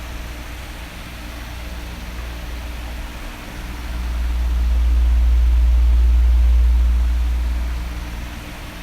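Electric oscillating fan running steadily: an even hiss over a low motor hum. About four seconds in, a deep low rumble of air blowing onto the microphone swells up and fades again over several seconds as the fan sweeps past.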